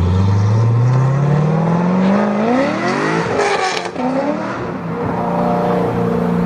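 Corvette C6 Victory Edition's LS2 6.0-litre V8 accelerating, its engine note rising steadily for about three and a half seconds, then dropping to a lower steady note.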